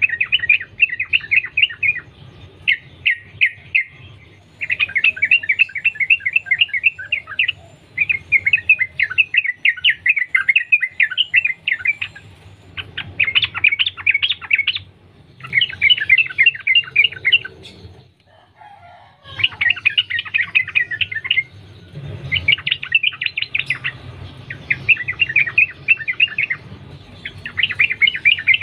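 Yellow-vented bulbul (trucukan) singing in long, rapid runs of chattering notes, phrase after phrase with short pauses between and a longer break about two thirds of the way through.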